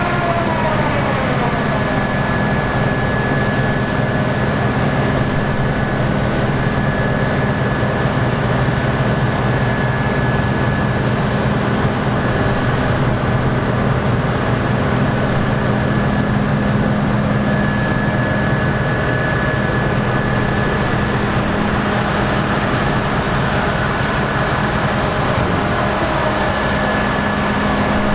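Large diesel harvest machinery running steadily under load, with a steady high whine above the engine note. A tone falls in pitch at the very start.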